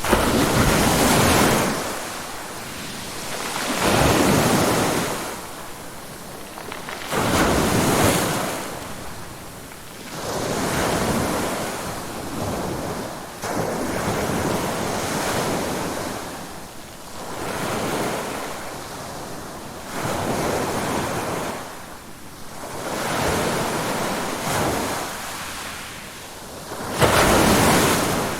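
Ocean waves breaking and washing on a shore, swelling and falling away in surges every three to four seconds, the strongest near the end.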